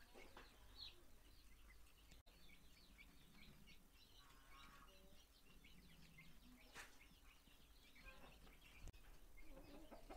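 Faint chirping of birds, many short high chirps overlapping, with one sharp click about seven seconds in.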